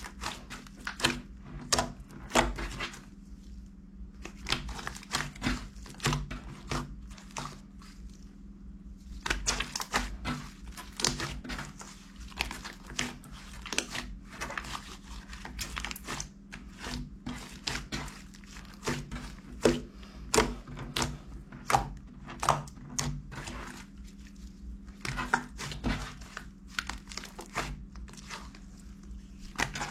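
Irregular rustling and crinkling with many small clicks and light knocks, as of something being handled, over a steady low hum.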